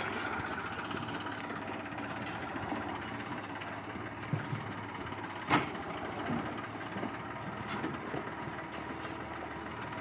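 Tractor engine running steadily, with one sharp knock a little past halfway.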